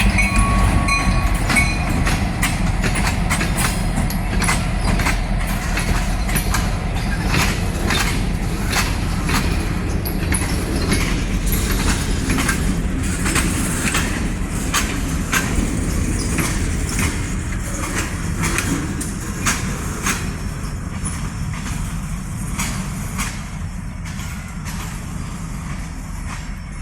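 Diesel-hauled freight train rolling past: a steady low locomotive engine rumble under the repeated clicking of wheels over rail joints. It slowly fades as it moves away.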